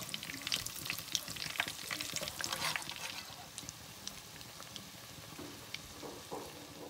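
Breaded potato-and-bread patties frying in hot oil in a nonstick pan, sizzling and crackling. For the first few seconds they are turned over with a metal slotted spatula and the crackling is louder; after that it settles to a quieter, steady sizzle.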